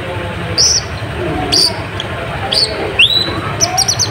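Kolibri ninja sunbird (konin) calling rapidly: sharp high chirps, a rising whistled note about three seconds in and a quick run of chirps near the end. Lower chattering calls run underneath.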